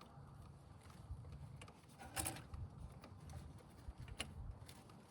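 Faint handling of hand tools on the engine during spark plug work: scattered light clicks and one brief, louder scrape about two seconds in.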